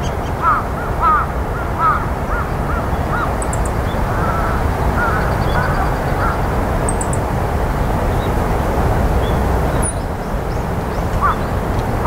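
A bird calling over and over in short, evenly pitched calls, several a second at first, a few more in the middle, then a pause before they start again near the end, over a steady low rush of wind. Faint, very high chirps of small birds come through now and then.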